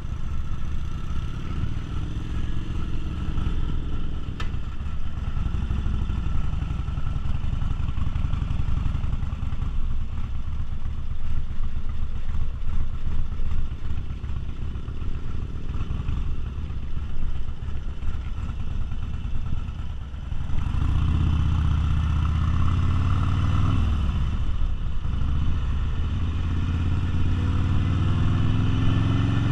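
V-twin cruiser motorcycle engine running under way, its pitch rising and falling with the revs through gear changes. About two-thirds of the way through the engine sound becomes louder and fuller.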